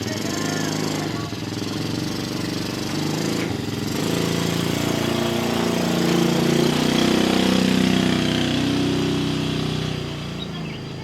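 A small engine running nearby, its hum growing louder through the middle and fading about ten seconds in.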